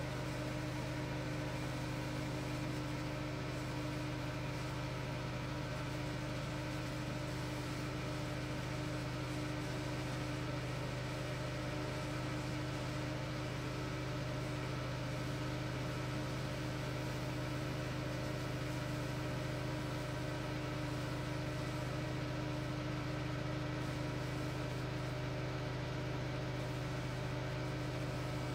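A steady machine hum with a strong low drone, unchanging throughout.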